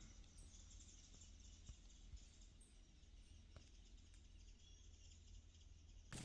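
Near silence: faint outdoor background, with two brief faint high chirps.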